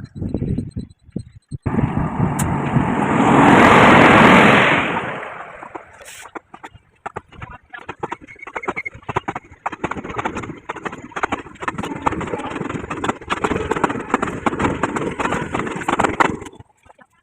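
A train passing through a railway station: a loud rush that swells and fades over a few seconds, followed by a rapid, irregular clatter of wheels on the rails that stops abruptly near the end.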